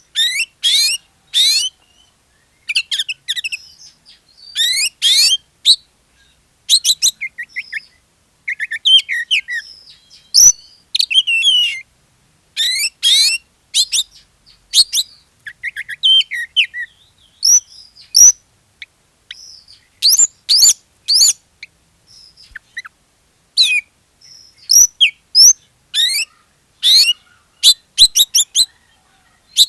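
Oriental magpie-robin in full, vigorous song: a continuous run of short, varied phrases of fast sweeping whistles and chirps, each broken off by a brief pause.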